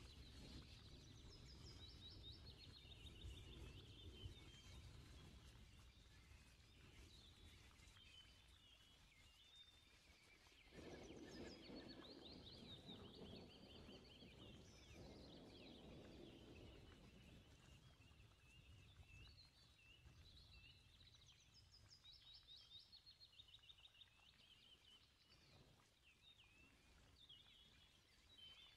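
Faint birds chirping and twittering throughout, in quick runs of short repeated notes, over a low background rumble. A muffled rustling noise rises from about eleven to sixteen seconds in.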